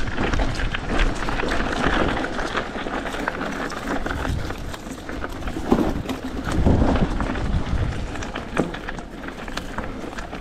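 Hardtail mountain bike ridden over a bumpy dirt trail with tree roots: tyre noise on the ground with constant rattles and knocks from the bike as it bounces, and two heavier thumps about six and seven seconds in.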